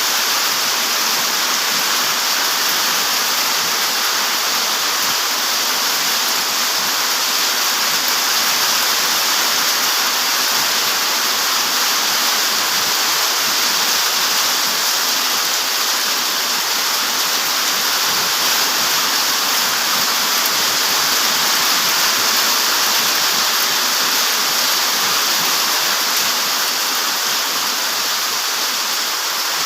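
Light rain and strong wind making a steady, even hiss with no breaks or individual drops standing out.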